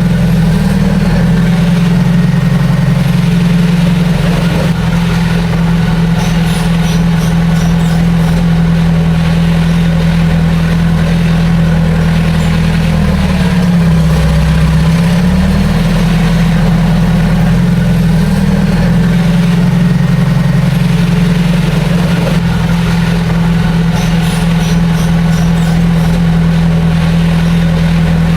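Heavy earthmoving machine's diesel engine running steadily and loud. About halfway through, its pitch dips for a second or two and then comes back up.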